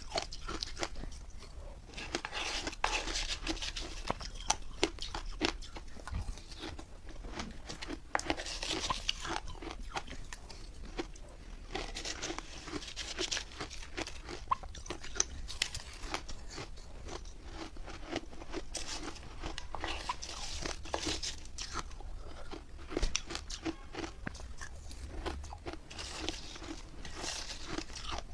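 Close-miked crunching and chewing of refrozen milk-and-matcha ice, with many sharp cracks and bursts of crackly chewing every few seconds.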